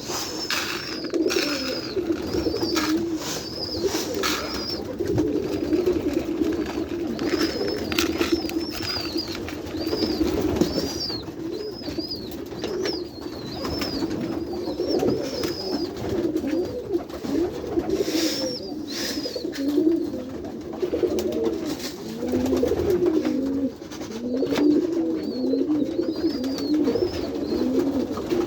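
A flock of domestic pigeons cooing all at once, many low wavering coos overlapping. Short high chirps and scattered sharp clicks and knocks come through above the cooing.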